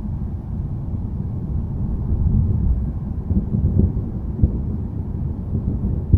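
Low rumble of thunder that swells through the middle and eases off, with a brief sharp knock about four and a half seconds in.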